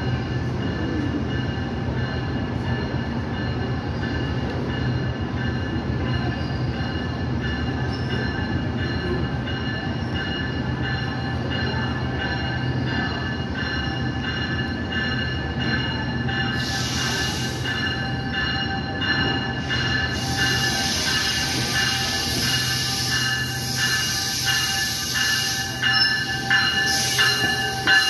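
GO Transit commuter train pulling into a station platform: a steady rumble with a thin high tone over it, then a run of regular clacks from the wheels that grows louder over the last several seconds as the bilevel coaches roll past.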